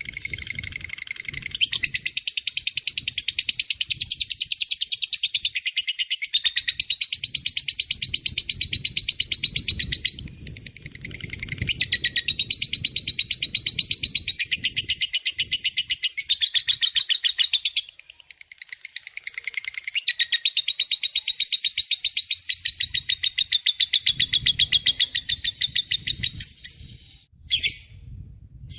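A lovebird in full song giving its long 'ngekek' chatter: shrill, very rapid trilled notes strung into unbroken runs many seconds long, with brief pauses about ten and eighteen seconds in and a few short calls near the end.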